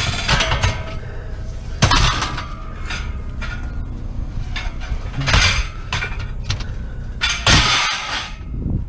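Scrap being handled and dropped: sharp clanks about two and about five seconds in, then a longer rattling clatter near the end, over a steady low rumble.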